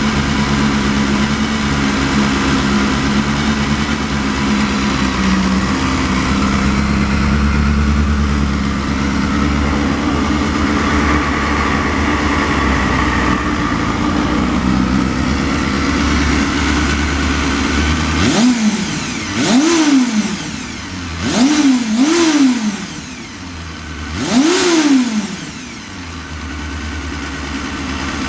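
Honda Hornet inline-four motorcycle engine idling steadily through its stock muffler, then blipped four times about two-thirds of the way through, each rev rising and falling quickly before settling back to idle.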